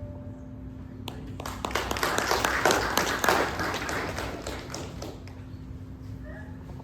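Congregation applauding after a song. The clapping starts about a second in, swells, and fades out by about five seconds.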